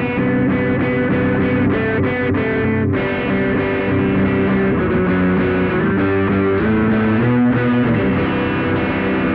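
Electric guitar played through a distortion pedal, a DIY op-amp circuit in the SansAmp Classic style, with held notes changing every half second or so and a brief break about three seconds in.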